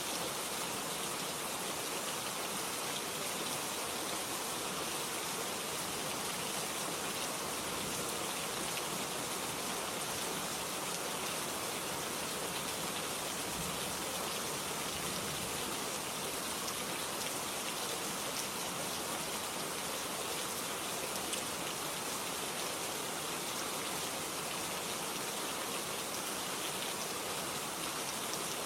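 Steady rain falling, an even hiss of rainfall with fine pattering drops on a surface.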